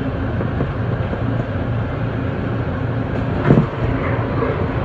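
Steady rumble of a moving passenger train heard from inside the car at its end window. About three and a half seconds in comes one brief, louder rush as a train on the next track passes.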